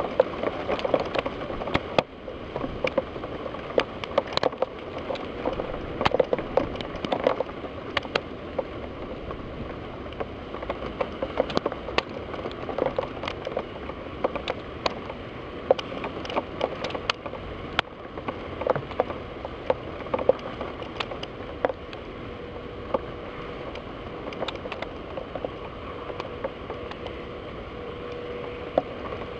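Rain striking a window pane. Many irregular sharp drop hits sound over a steady hiss of rainfall.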